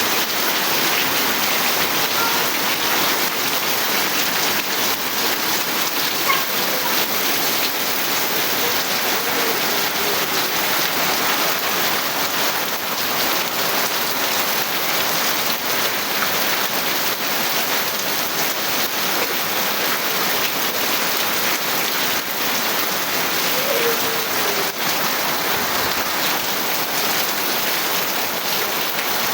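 Steady rain falling and pattering on surfaces, keeping an even level throughout.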